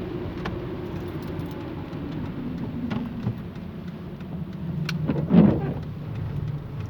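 Car driving in the rain on a wet road, heard from inside the cabin: steady engine and tyre noise with rain on the car. One louder swell rises and falls about five seconds in.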